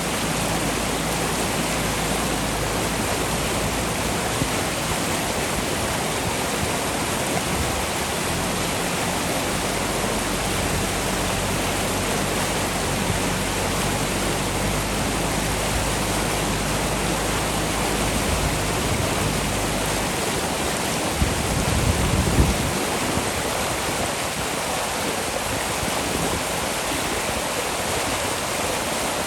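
Fast-flowing river rushing steadily, with a backhoe loader's diesel engine running low underneath for most of the time before it fades out about two-thirds of the way through. A brief low thump comes soon after.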